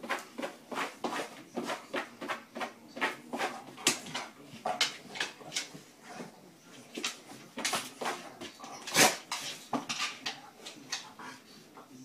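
A dog making a quick, irregular run of short, sharp sounds, several a second, the loudest about nine seconds in.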